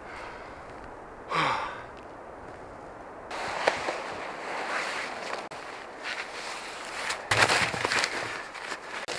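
Footsteps crunching through snow, irregular and uneven, with a louder crunch near the end. About a second in there is a single short tone that falls in pitch.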